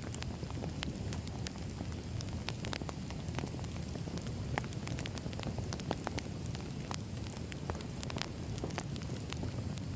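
Firewood burning, crackling steadily: irregular sharp pops and snaps over a constant low rumble of flame.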